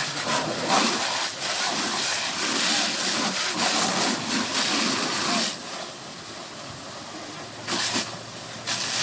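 Water splashing and sloshing, busy for about five seconds, then easing off, with two short splashes near the end.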